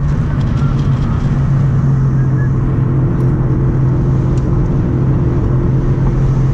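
Car engine and road noise heard from inside the cabin while driving: a steady low drone with a few faint ticks.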